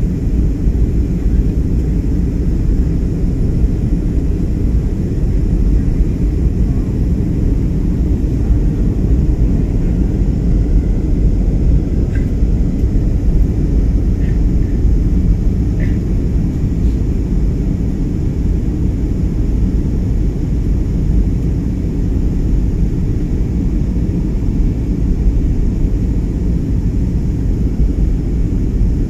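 Steady low rumble of a Trigana Air airliner's engines and airflow as it comes in to land at Wamena.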